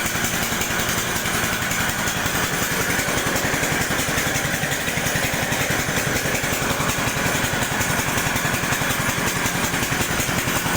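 Vertical pellet press with a 4 mm die running on test, its drive running steadily with a fast, even mechanical pulse.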